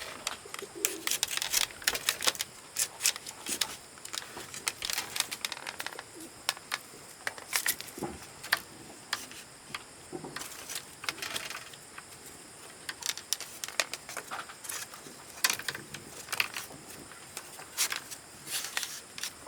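Irregular sharp clicks and knocks, with a bird cooing faintly near the start.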